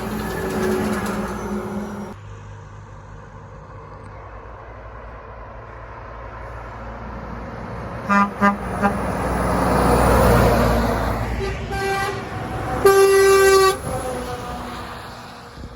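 Truck horns sounding at passing trucks: a few short toots about eight seconds in and a longer blast near the end, over the rush of passing traffic that swells as a vehicle goes by in between.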